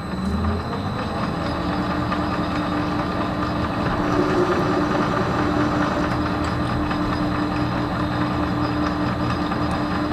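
Metal lathe running steadily during a thread-cutting pass, its motor and gearing giving a steady hum over a busy mechanical whirr. It comes up to speed in the first second.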